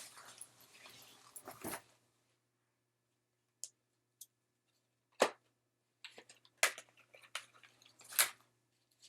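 Rustling and handling noises as airsoft gear and straps are taken off, with a sharp knock about five seconds in and more rustling and clicks after it.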